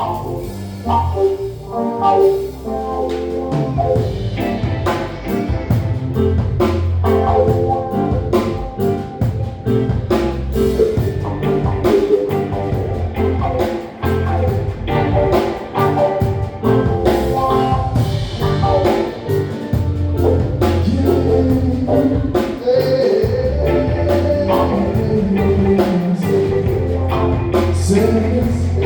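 Live reggae band playing on stage, with drum kit and bass guitar; the bass comes in about three seconds in.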